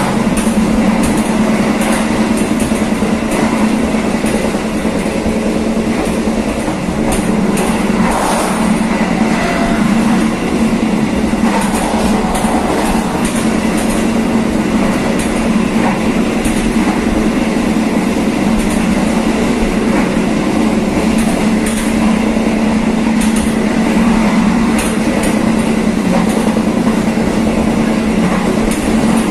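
Passenger train running steadily on the line, heard from the rear of the train: a continuous rumble of wheels on rail with a steady low hum and scattered light clicks.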